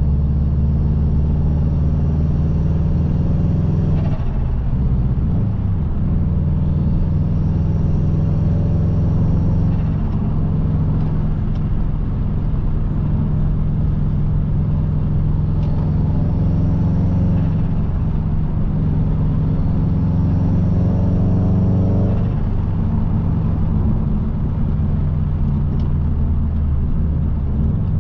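Subaru Impreza WRX turbocharged flat-four engine and road noise heard while driving, a steady low drone whose pitch rises and falls several times as the engine revs up and settles.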